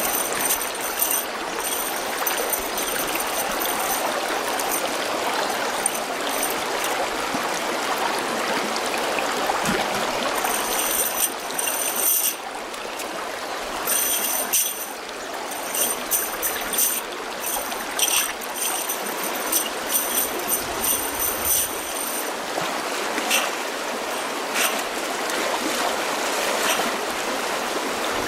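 Water running steadily, like a flowing stream. High-pitched, rapidly pulsing calls come and go over it.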